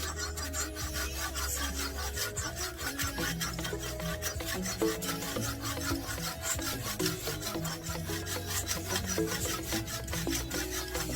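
Rapid, repeated rasping strokes on wood, like hand-sawing, over background music with a melody and bass line.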